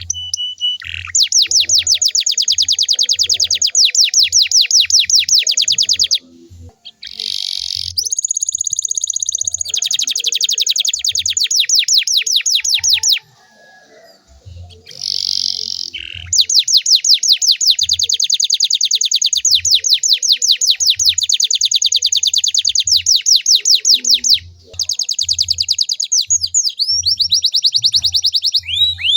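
Domestic canary singing long, fast trills of rapidly repeated high notes, in several phrases split by short pauses.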